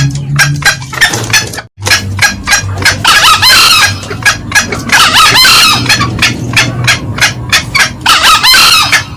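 Green junglefowl lure call played loud: a fast run of short repeated cackling notes, about five a second. Three denser, longer calls, the cock's crow, come about 3, 5 and 8 seconds in, and the sound drops out for a moment just before 2 seconds.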